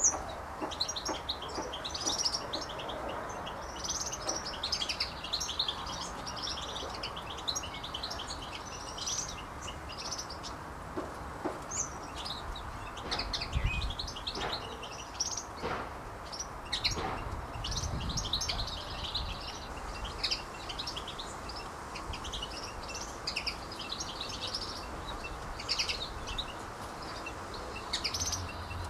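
A group of small birds chirping and twittering, with many short high chirps overlapping without a break.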